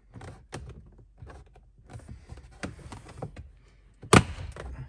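Plastic interior trim panel being tugged and worked loose by hand: scattered clicks and creaks from its clips, then one sharp loud snap about four seconds in as a clip lets go.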